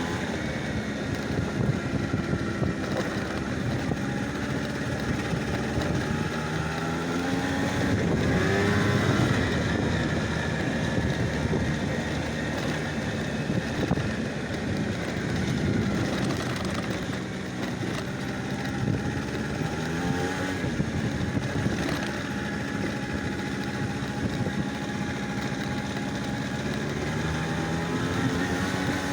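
A motor vehicle's engine running steadily, its pitch rising as it revs around a third of the way in and again about two-thirds through.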